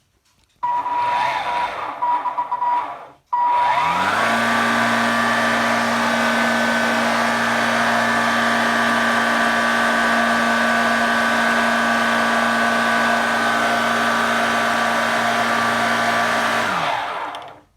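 Cordless stick vacuum's motor running with its on/off switch bypassed by shorting the contacts: after a brief first burst it spins up to a steady whine, runs for about thirteen seconds, then winds down near the end. It runs without the switch, the sign that the broken micro switch is the fault.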